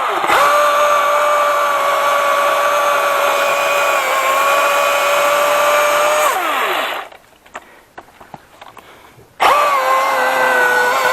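Milwaukee M18 FUEL battery chainsaw's electric motor running with a steady whine. It winds down, falling in pitch, about six and a half seconds in, then starts again about two and a half seconds later and runs on.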